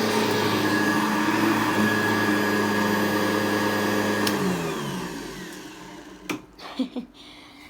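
1982 Hoover Convertible U4315 upright vacuum cleaner running at a steady pitch, then switched off about four seconds in, its motor winding down with a falling whine. A few knocks follow near the end.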